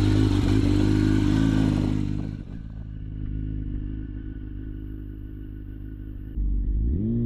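Yamaha R1 sport bike's inline-four engine running steadily at speed with wind rush. About two seconds in it drops to a quieter, steady note without the wind. Near the end the revs rise and fall once as it pulls away.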